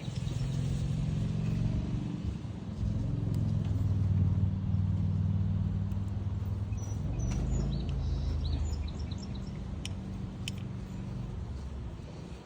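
A low, steady engine hum that grows louder in the middle and fades near the end, with a few short bird chirps over it in the later part.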